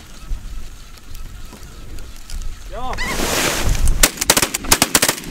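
Shotgun volley from several hunters firing on decoying snow geese: a rapid string of about eight shots starting about four seconds in. It is preceded by a short call and a rush of noise.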